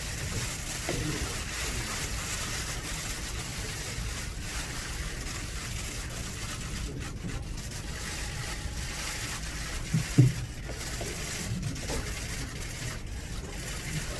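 Steady background hubbub and hiss of a crowded press room, with a brief low, voice-like sound about ten seconds in.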